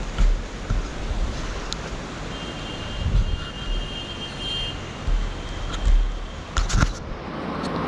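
Wind buffeting the microphone, with steady rushing noise, on a moving motorcycle. A few sharp knocks come near the end.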